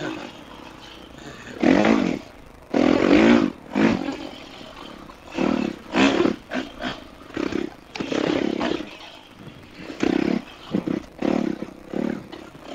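Dirt bike engine revving in short bursts, the throttle opened and shut over and over, more than a dozen times, with the pitch rising and falling on each blip.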